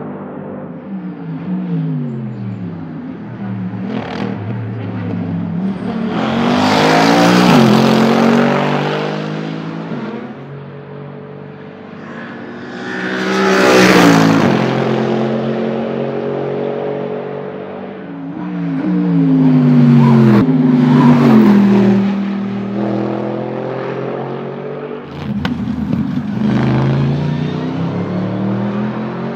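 Mercedes SLS AMG GT3 race car's 6.2-litre V8 at full throttle on a track, the engine note rising and dropping through gear changes. The sound swells loudly and fades three times, like cars passing at speed.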